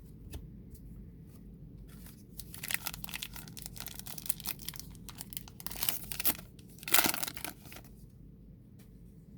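A trading-card pack's wrapper being torn open and crinkled in the hands for about five seconds, with the loudest rip near the end.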